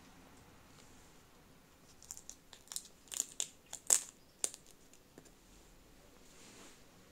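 Light crinkling handling noise: a quick run of short clicks and crackles starting about two seconds in and lasting some two and a half seconds, the loudest near the end of the run, over quiet room tone.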